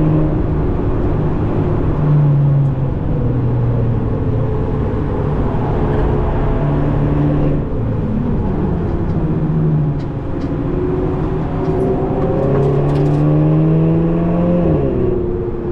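2017 VW Golf 7.5 GTI Performance's tuned turbocharged 2.0-litre four-cylinder, heard from inside the cabin as the car is driven at speed on track, with road and tyre noise underneath. Its pitch holds and shifts in steps several times with the gear changes of the DSG gearbox. Near the end it climbs steadily, then drops suddenly.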